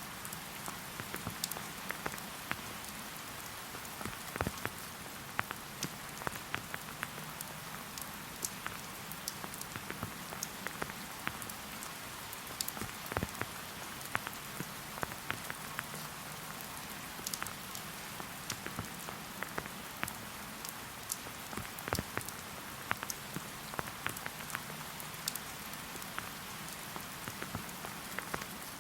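Steady rain falling, with many separate drops tapping at irregular moments over the even patter.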